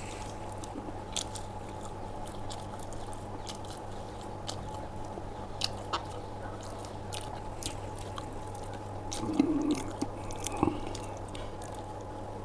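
Close-miked chewing and biting of food, with scattered wet mouth clicks and a louder burst of chewing about nine seconds in, over a steady low hum.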